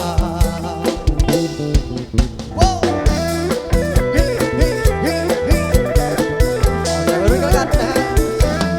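A live band playing an instrumental break: a drum kit keeps a steady beat under guitar and a wavering lead melody.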